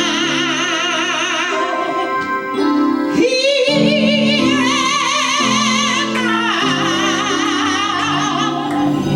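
A solo voice singing long held notes with wide vibrato over sustained instrumental accompaniment.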